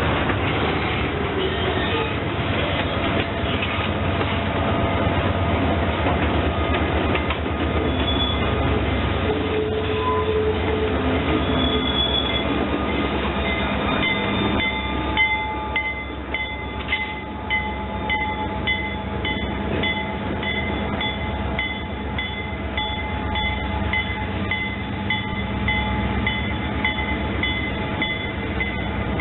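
Diesel freight locomotive running, a steady low engine rumble with rail noise. About halfway through, a high ringing tone starts repeating at an even pace over it.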